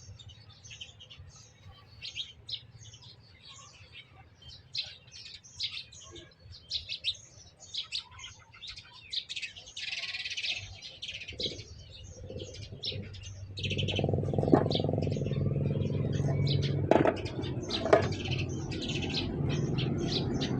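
Small birds chirping over and over in quick short calls. About two-thirds of the way in, a louder steady low rumble starts up under the chirping.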